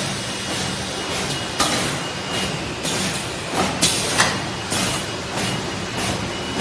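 Plastic bag cutting machine with an in-line handle punch running: a steady mechanical hum with a sharp cutting or punching stroke roughly every second.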